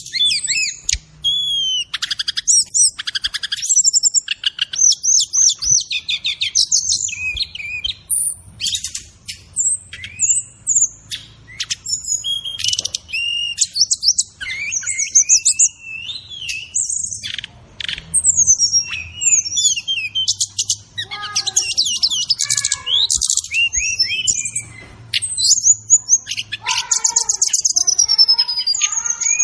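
Brown-chested jungle flycatcher (sikatan rimba dada coklat) singing a continuous, fast, varied song of high chirps, trills and gliding whistles, with fill-in phrases (isian) of other birds' calls. Some lower-pitched phrases come in over the last third.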